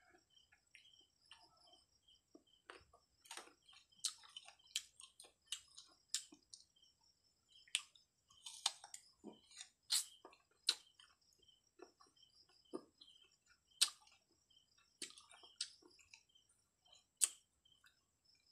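Close-up chewing of unripe green Indian mango: irregular sharp crunches, wet clicks and mouth smacks, with some louder crunches in the middle and near the end.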